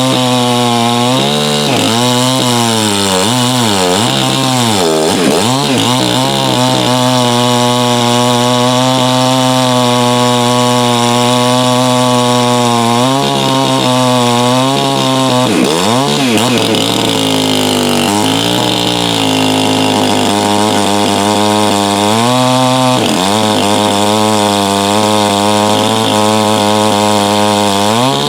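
Stihl MS 660 clone chainsaw (Farmertec) with a 36-inch bar and an exhaust port lowered one degree, running loud at high speed. Its pitch dips and climbs back several times, with steadier stretches between.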